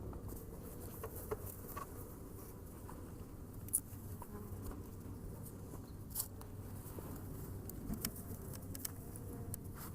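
Honeybees buzzing steadily around an opened hive, with a few short clicks and knocks from the hive boxes being handled.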